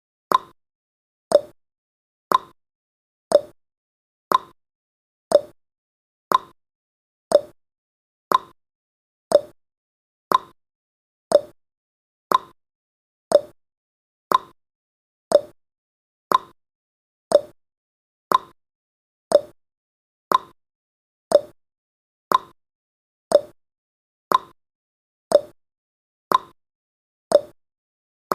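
Countdown timer's tick sound effect: one short, sharp click each second, evenly spaced, marking each second of the count.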